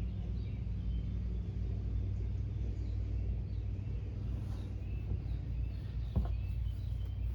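Steady low rumble with faint bird chirps over it, and a single sharp click about six seconds in.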